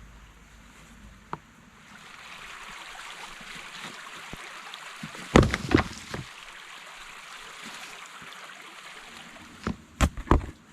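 Steady rushing of running water. Sharp knocks sound over it: a loud cluster about halfway through and three more near the end.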